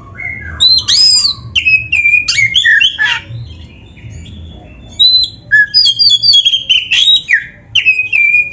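Oriental magpie-robin (kacer) singing a loud, fast, varied song of whistles, chirps and rasping notes. It pauses briefly near the middle, then starts again.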